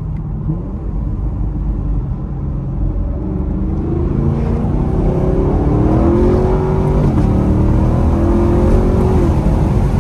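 Chevrolet Camaro engine under hard acceleration through a 10-speed automatic, heard from inside the cabin: the engine note climbs, drops back at each upshift from second to fourth gear and climbs again, growing louder as the car gathers speed.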